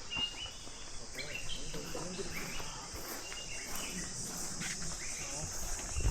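Steady high-pitched insect chorus, with short gliding bird calls repeated several times over it.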